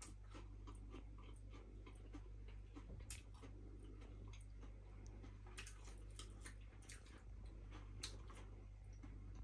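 Faint chewing of a mouthful of crispy fried fish burger: soft, irregular crunches and mouth clicks, with a sharper click about three seconds in, over a low steady hum.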